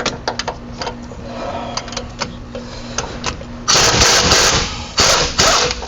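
Light metal clinks, then a power impact wrench hammering in two bursts, about a second and then half a second long, on the stuck hub assembly bolts of a Ram 1500 wheel hub.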